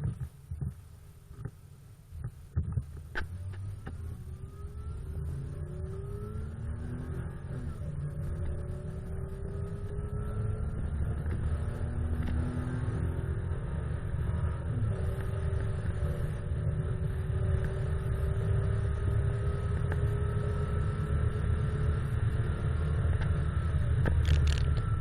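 Volvo 960's 3-litre inline-six pulling away and accelerating hard through its four-speed automatic gearbox. A few clicks come before it moves off. The engine note rises and drops back at each upshift, while a low rumble and road noise grow steadily louder.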